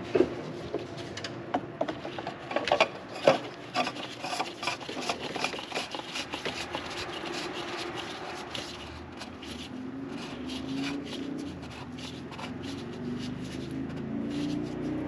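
Oil filter housing cap being threaded back on by hand: irregular clicks and scraping rubs, busiest in the first half and then softer.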